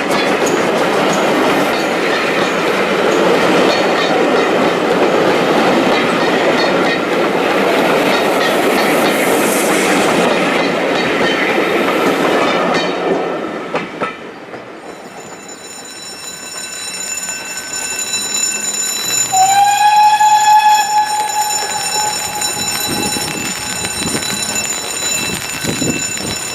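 A steam-hauled train running past with loud, dense rolling and working noise. After a sudden change, a steam locomotive whistle sounds once for about two and a half seconds, sliding up briefly at the start and then holding a steady pitch.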